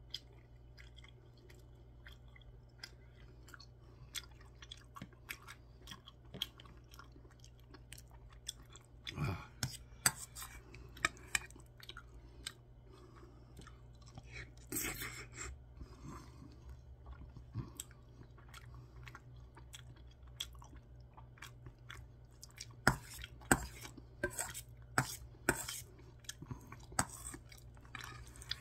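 Close-up chewing and mouth sounds of a person eating spoonfuls of curry rice mixed with spicy canned tuna, with sharp clicks and smacks throughout, in clusters about ten seconds in and again near the end. A metal spoon scrapes and taps against a stainless steel bowl between bites.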